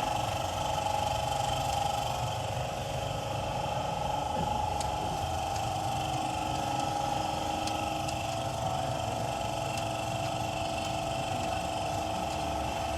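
Steady mechanical hum with an even, high whine and a few faint light clicks.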